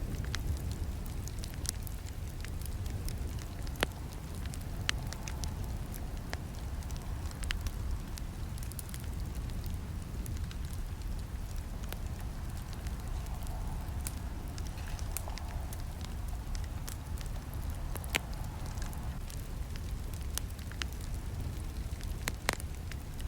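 Campfire burning, with irregular sharp crackles and snaps over a steady low rumble of the flames; a few snaps stand out louder.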